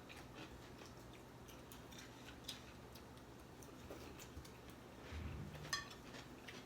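Faint eating sounds from fried chicken wings: scattered small clicks and crunches over a low steady hum, with a brief low murmur about five seconds in.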